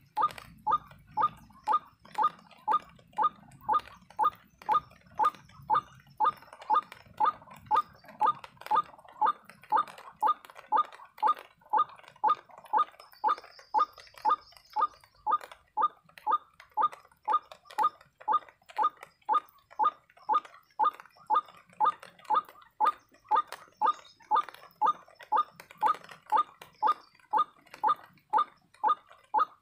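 White-breasted waterhen (ruak-ruak) call, repeated with very even timing at about two short notes a second: a lure call played to draw birds to the snare.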